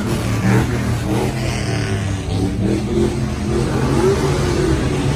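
A car engine running, its pitch rising and falling a little in the middle as it is revved lightly.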